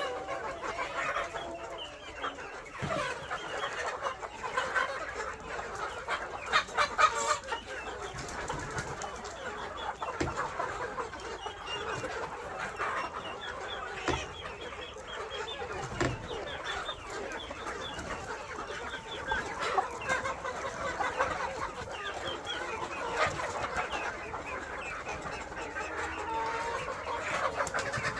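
A flock of KUB native chickens clucking continuously, many birds at once, with a few sharp knocks among them.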